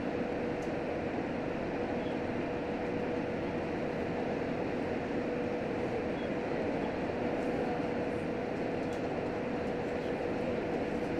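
Running noise inside a JR Hokkaido H100 diesel-electric railcar under way: a steady rumble of wheels on rail and the drive, with a thin steady hum running through it.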